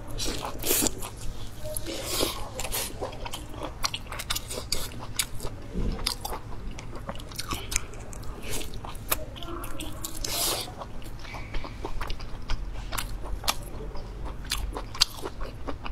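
Close-miked biting and chewing of braised pork large intestine: a steady run of many short mouth clicks and chews.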